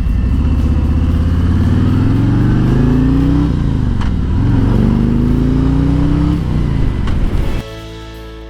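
Harley-Davidson Road King Special's Milwaukee-Eight 114 V-twin accelerating, its pitch rising, dropping at an upshift, then rising again in the next gear. Near the end the engine gives way to music.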